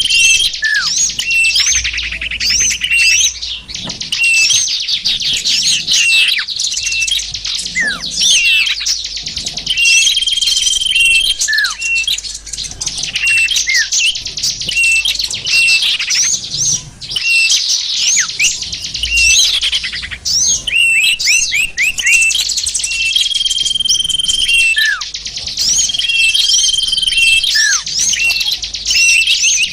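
Bird-lure (pikat) recording of many small songbirds calling at once: a dense mass of quick chirps and trills, with a high whistle held for about a second now and then and short whistles that slide down in pitch.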